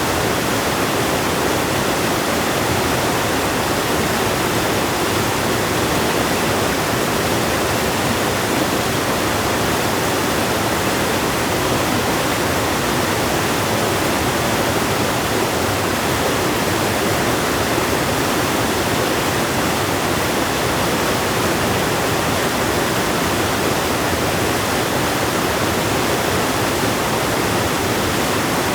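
River water rushing past in a steady, unbroken wash of noise.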